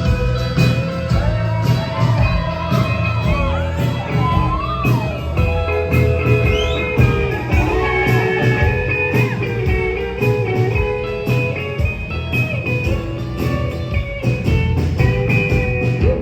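Live band playing an instrumental stretch of a song: a guitar and other pitched instruments over a steady beat, with no singing.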